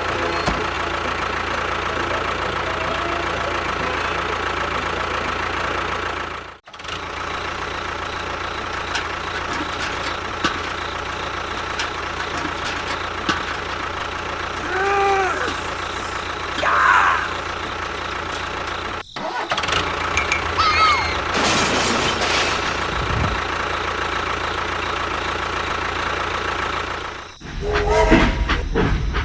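Steady engine-like motor drone with a constant whine, cut off abruptly twice and resuming each time, with a few short rising-and-falling chirps over it.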